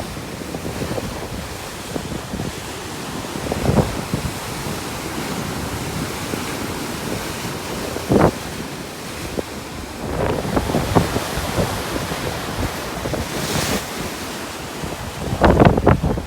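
Stormy sea surf washing and breaking steadily, with wind gusting across the phone's microphone in several louder surges, the strongest near the end.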